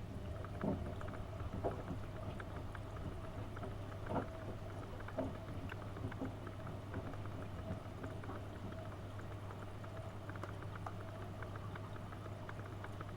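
AEG Öko-Lavamat 72520 front-loading washing machine washing a load: a steady motor hum with water and laundry sloshing in the turning drum, and a few soft knocks in the first half.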